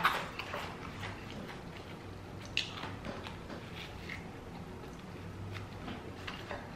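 A person biting into and chewing a soft turkey, cranberry and stuffing sub sandwich: quiet chewing with faint scattered mouth clicks. A brief sharp knock right at the start as the sandwich is handled on the plate.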